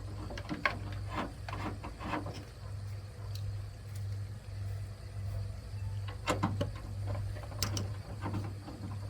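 Scattered light clicks and knocks of hands handling plastic headlight parts and connectors, over a steady low hum that pulses evenly.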